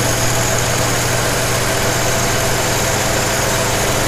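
1981 Jeep CJ7 engine idling steadily on its rebuilt Weber 32/36 carburetor while the idle mixture screw is turned in small steps to get the highest vacuum reading.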